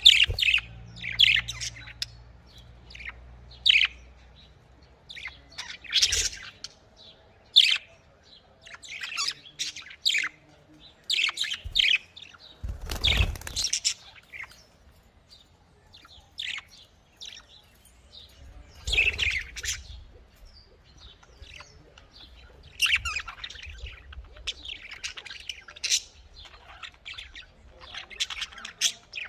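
Budgerigar (Australian parrot) chirping and warbling in quick, short high calls throughout, with a brief louder noise about halfway through.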